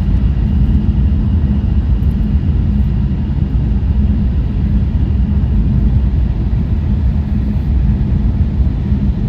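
Loud, steady low rumble of a train running at speed, heard from inside the carriage, with no distinct events.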